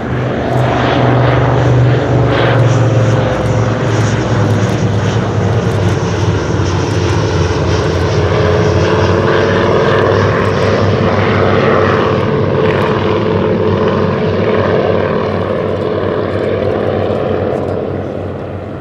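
Piston engines and propellers of a de Havilland Dragon Rapide and an Avro 19 Anson flying past together: the Rapide's two Gipsy Six engines and the Anson's two Armstrong Siddeley Cheetah radials. A loud, steady drone with a slight drop in pitch as they pass, fading near the end.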